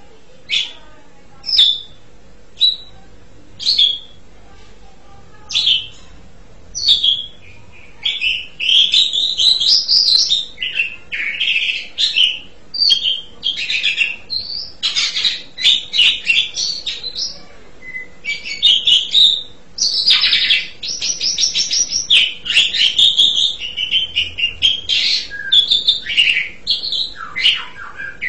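Asian pied starling (jalak suren) giving single short calls about once a second, then about eight seconds in breaking into a long, continuous song of varied whistles and chattering notes.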